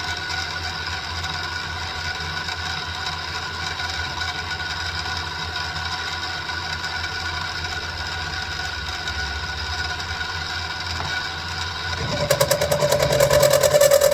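Central Machinery (Sieg X2) mini milling machine running with a steady whine. About twelve seconds in it gets louder, with a strong new tone and a fast pulsing, as the end mill starts cutting into 1045 steel.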